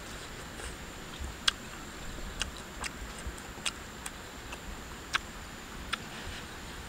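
Close-up mouth sounds of eating sticky glazed pork: about seven sharp, irregular lip-smacking and chewing clicks. Behind them runs a steady high insect drone.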